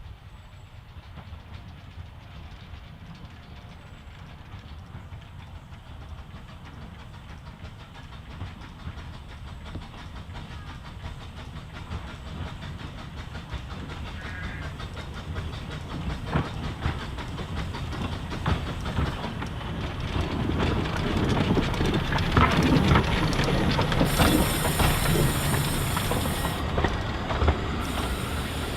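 Talyllyn Railway narrow-gauge steam train approaching, its running and the rattle of the carriages growing steadily louder. Near the end come two bursts of high hissing.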